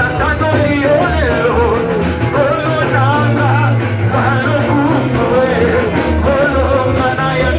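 Live church worship music: voices singing over a band, with a bass line moving underneath.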